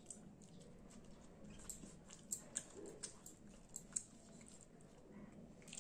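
Close-up eating sounds: faint chewing of a mouthful of rice and curry, with short sharp wet mouth clicks and smacks coming irregularly, several in the second half.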